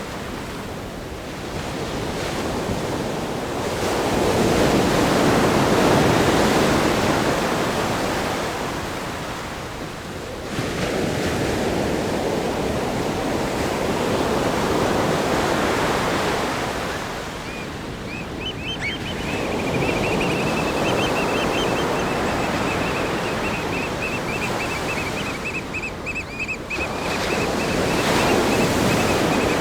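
Ocean waves breaking and washing against a rock groin on a sandy beach, surging and receding every several seconds. In the second half a thin, slightly wavering high tone runs along under the surf for about ten seconds.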